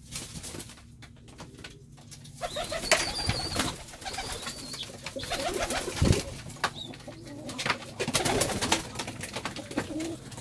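Pigeons cooing inside a loft, with scattered clicks and scuffling from the birds moving about, busier after the first couple of seconds.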